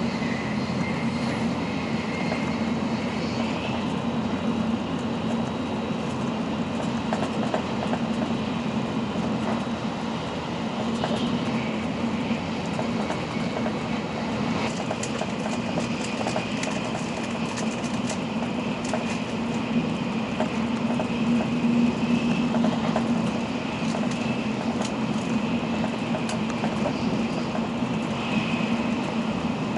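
N700-series Shinkansen running, heard from inside the passenger cabin: a steady low hum over rushing track and air noise, with a faint high whine and scattered light clicks.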